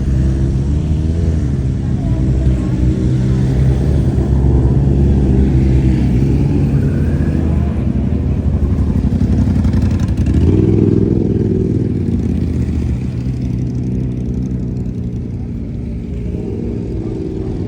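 Car engine running steadily with a deep, low note, swelling louder and fuller about ten seconds in before settling back.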